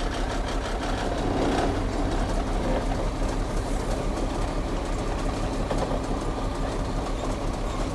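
Caterpillar diesel engine of a 2001 Freightliner FL70 truck running steadily, heard from in or near the cab, with a fast patter of rattles and clicks over the engine hum.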